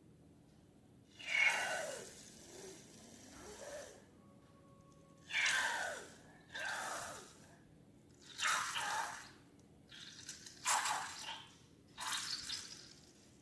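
Slime and liquid ingredients squelching and plopping in about six separate wet bursts, each under a second and spaced a second or two apart.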